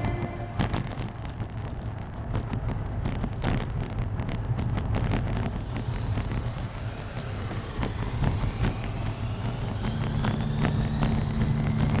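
Steady road and wind noise from riding a hybrid bicycle, with scattered clicks and ticks. Near the end a faint rising whine and a steady low hum come in.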